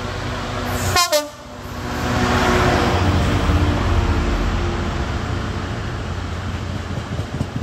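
A diesel freight locomotive gives a short pip on its horn about a second in, then its engine rumbles loudly as it draws close. Loaded stone wagons follow, with rhythmic wheel knocks near the end.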